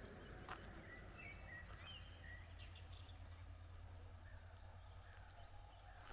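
Faint songbirds chirping: short, thin whistled notes scattered throughout, over a steady low rumble.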